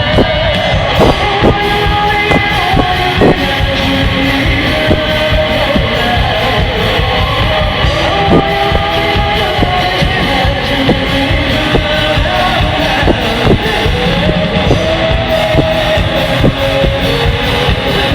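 Rock band playing live: a lead vocal sung over electric guitar and drums.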